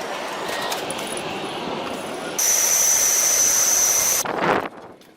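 Fighter jet engine running: a steady rush, then about two and a half seconds in a sudden, louder high-pitched turbine whine with hiss that cuts off near the end.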